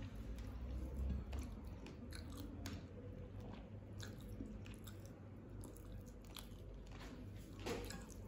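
A person chewing food by mouth, with soft, irregular wet mouth clicks. Fingers mixing rice on a ceramic plate add small clicks.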